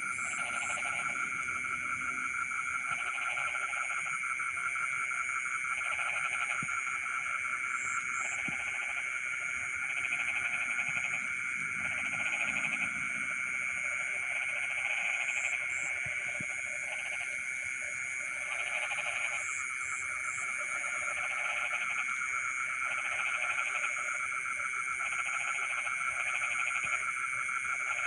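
Night chorus of frogs in a rice field: a dense, unbroken trilling chorus, with individual frogs calling in short repeated bursts every second or two. Insects keep up a steady high-pitched drone behind them.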